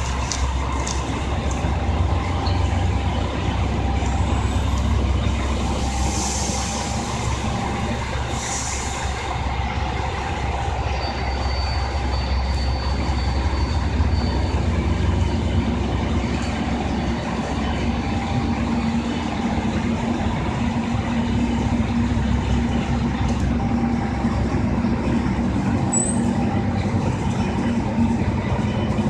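A JR Shikoku 2000 series diesel railcar running steadily with a low engine rumble, with two short hisses of air from the brakes about six and eight and a half seconds in.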